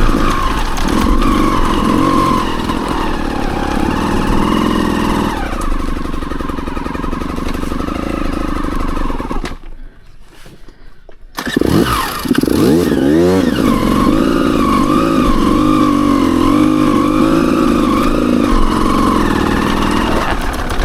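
Dirt bike engine running under the rider on a trail. About ten seconds in it goes quiet for roughly two seconds, then fires back up with a rising rev.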